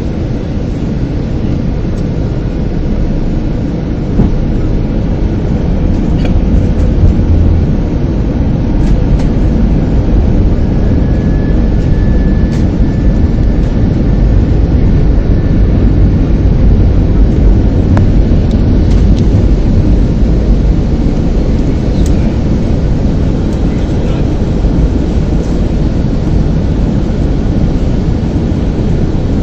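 Airliner cabin noise: the steady, loud rumble of the jet engines and airflow, growing a little louder about four seconds in.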